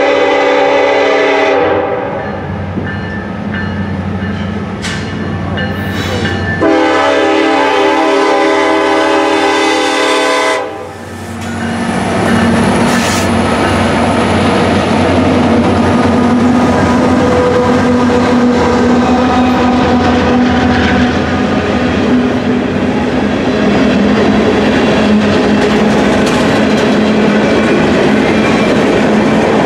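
Union Pacific EMD SD70ACE diesel locomotive's air horn sounds for the grade crossing: a short blast that ends about two seconds in, then a longer blast of about four seconds. The locomotives then pass close by with their diesel engines running loudly, followed by covered hopper cars rolling past with a steady clickety-clack of wheels.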